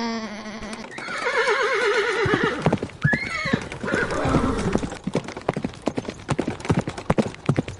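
Horse whinnying with a wavering, shaking call, then hooves clip-clopping in a quick run of knocks for the rest of the time.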